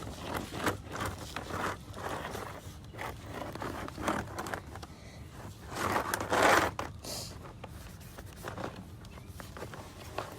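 A cloth or sponge rubbed over a dirt bike helmet's shell in irregular wiping and scraping strokes, loudest about six seconds in.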